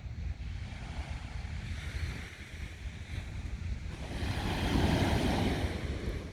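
Sea waves washing onto a sandy beach, with wind buffeting the microphone. A wave surges in about four seconds in and is the loudest part, easing off near the end.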